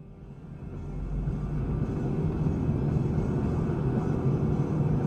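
Steady low rumble of a vehicle driving, with a low engine hum, swelling over the first second and then holding even.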